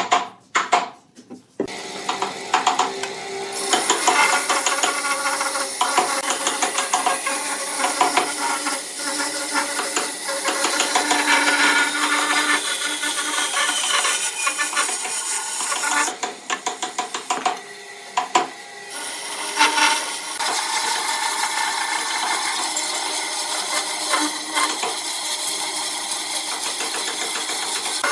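An electric power tool running steadily with a whine and rattle, working wood; it drops off for a few seconds with some knocks about two-thirds of the way through, then runs again.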